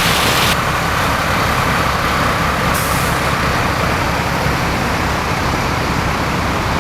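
Truck on the road: a steady low engine hum under continuous road and wind noise.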